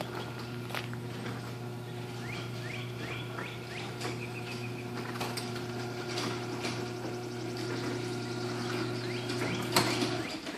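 LiftMaster chain-drive garage door opener raising an insulated steel door: a steady motor hum with the chain running. It ends with a knock about ten seconds in as the opener stops.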